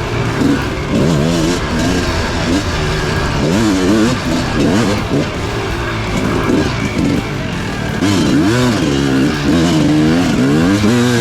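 250cc dirt bike engine revving up and down over and over under throttle while riding, its pitch rising and falling about once a second.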